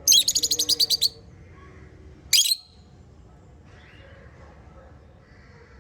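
Small pet parrots chirping: a fast run of about ten high chirps in the first second, then a single sharp rising chirp about two and a half seconds in.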